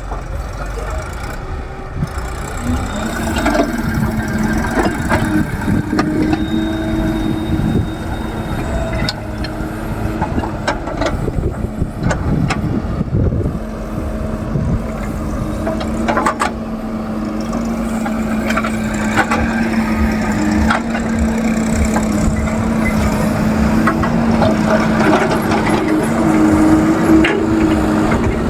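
Backhoe loader's diesel engine running steadily under work, with scattered knocks and clanks from the digging and loading.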